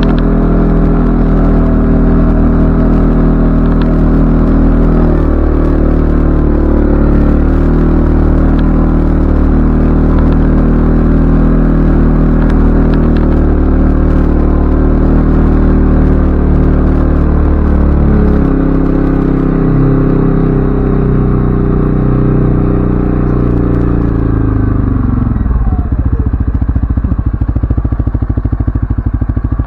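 ATV engine running under way, its pitch shifting a little as it goes. About 25 seconds in it drops off to an even, pulsing idle.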